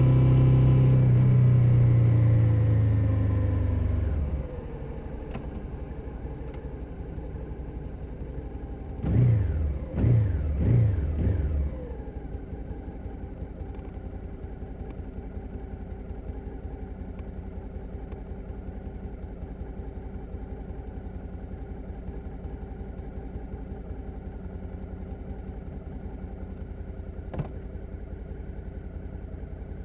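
2021 Suzuki SV650's 645 cc V-twin engine winding down as the bike slows, then idling with an even beat. About nine seconds in it is blipped three times in quick succession, then idles on, with a single sharp click near the end.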